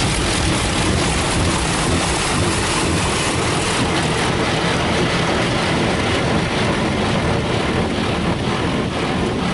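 Steady spray from a touchless car wash's high-pressure water jets hitting the car, heard from inside the cabin.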